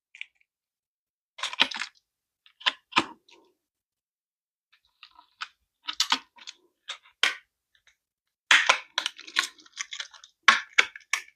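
Plastic packaging insert clicking and crackling in irregular bursts as a diecast toy car is worked out of it, the handling busier in the last few seconds.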